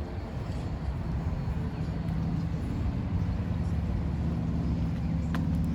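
An engine running with a steady low hum that comes in about two seconds in and grows a little louder.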